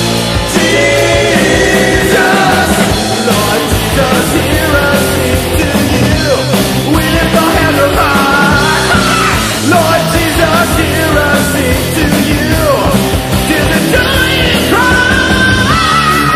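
Loud heavy metal band playing: distorted guitars and drums, with a lead line of held notes that bend and slide in pitch.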